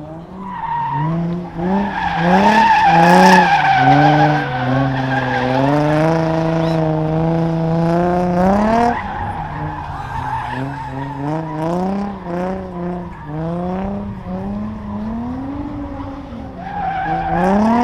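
Car engine revving hard and repeatedly while drifting, its pitch climbing and dropping many times and held high for a few seconds in the middle, with tyre squeal from spinning rear tyres.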